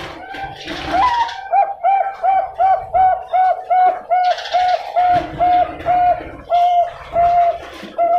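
Zebra dove (perkutut, Bangkok show-bred line) cooing: a rising opening note, then a long run of short, evenly spaced coos, about three a second, spacing out slightly near the end.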